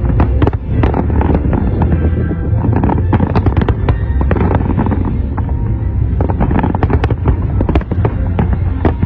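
Large aerial fireworks display: rapid, irregular volleys of shell bursts and crackling bangs, many close together, with music playing underneath.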